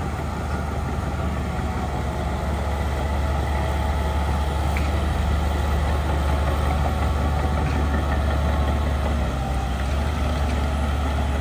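Heavy diesel engine of earthmoving equipment running steadily, with a deep low hum that grows a little louder partway through.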